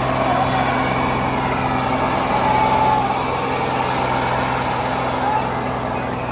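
Heavy machinery engine, most likely a tractor's, running at a steady speed with a constant low drone and dense mechanical noise.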